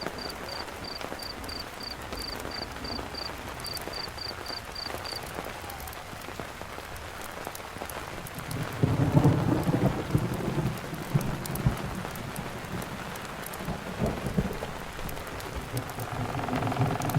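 Steady rain falling, with a cricket chirping in short, evenly spaced high-pitched pulses for the first five seconds. A low rumble of thunder rises about nine seconds in, the loudest part, and a smaller rumble comes near the end.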